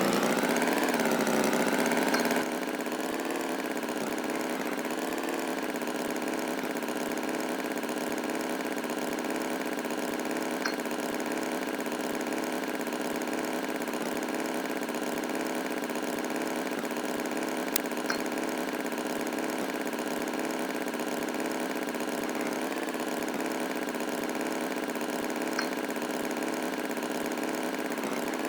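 An engine idling steadily. It is louder for the first couple of seconds with the pitch swinging up and down, then settles into an even hum. A few faint clicks can be heard along the way.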